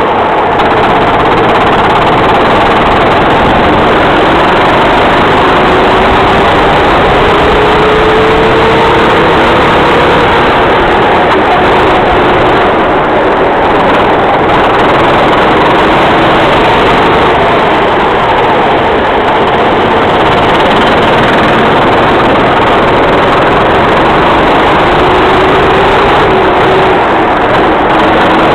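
Racing kart engine running loud and steady under a dense rushing noise, its pitch rising and falling now and then as the kart accelerates and lifts.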